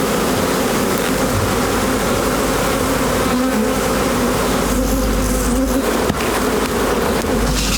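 A mass of honeybees buzzing: a dense, steady, wavering hum, with a sharp crackle from a fire about six seconds in.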